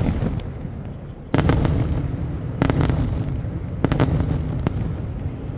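Daytime fireworks shells bursting overhead: three heavy booms a little over a second apart starting about a second and a half in, with smaller sharp cracks between them and a low rumbling echo that hangs on.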